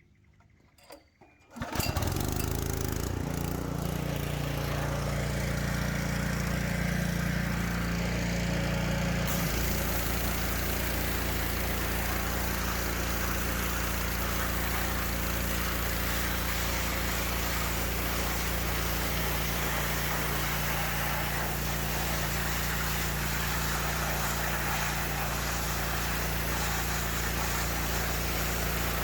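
A Honda GX200 single-cylinder engine on a gas pressure washer starts up about two seconds in and then runs steadily. About nine seconds in its note shifts and a steady hiss joins in.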